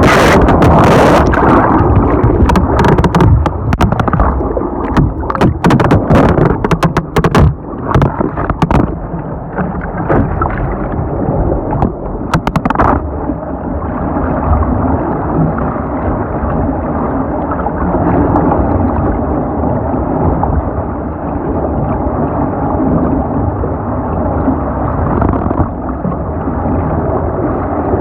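Water splashing and rushing over a camera on a water-slide ride, with many sharp knocks and crackles for the first nine seconds or so, then a steady, muffled rush of water.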